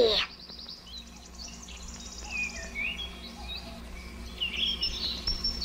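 Birdsong: a quick high trill just after the start, then scattered short chirps and whistles, growing busier near the end.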